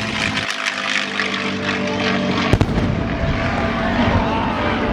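A single sharp bang about two and a half seconds in, followed by a low rumble: a ground pyrotechnic charge set off to simulate a bomb strike, over the steady noise of aircraft.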